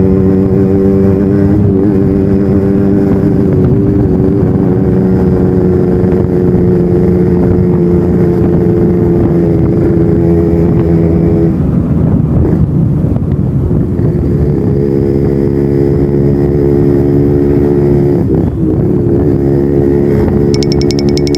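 Yamaha RX-King's two-stroke single-cylinder engine running through its original exhaust under way, holding a steady note. The note breaks up for about three seconds around the middle, then settles back to a steady pitch.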